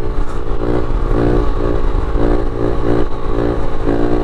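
Small pit bike engine running at fairly steady revs, the throttle feathered so the sound swells and eases about every half second as the rider holds a wheelie. A low wind rumble sits on the microphone underneath.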